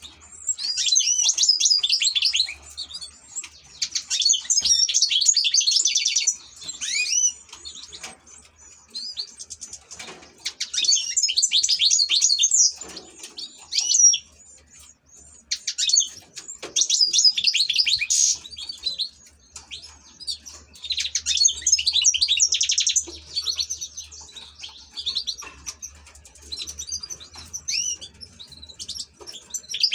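European goldfinch singing: bouts of rapid, high-pitched twittering and trills, each lasting two to three seconds, broken by short pauses.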